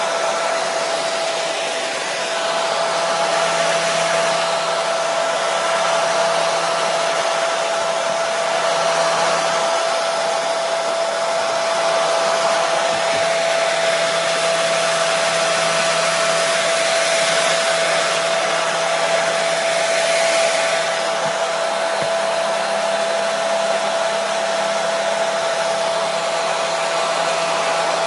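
Hair dryer running steadily: an even rush of air with a constant motor whine, one clear tone held throughout.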